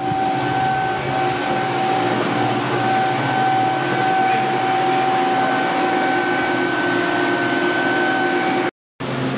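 A steady mechanical hum with a constant high whine over it.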